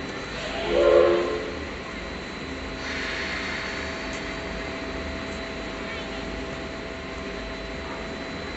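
Steam locomotive (C62 type) giving a short whistle blast about a second in, swelling and fading, then a burst of steam hissing, over a steady background rumble.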